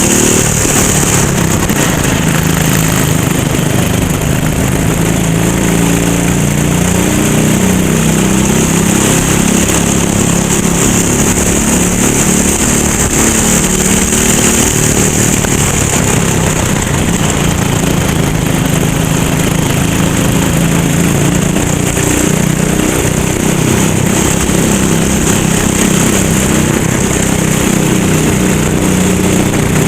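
Kart engine at racing speed, its pitch rising and falling continually as it speeds up and slows for corners, with a steady high hiss above it.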